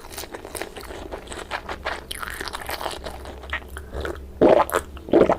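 Close-miked eating sounds: a mouth chewing sushi, with a dense run of small wet clicks and smacks. Two much louder mouth sounds come about four and five seconds in.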